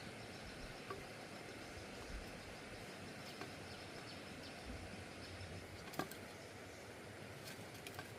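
Quiet outdoor background noise with a few scattered light clicks or knocks, the sharpest about six seconds in.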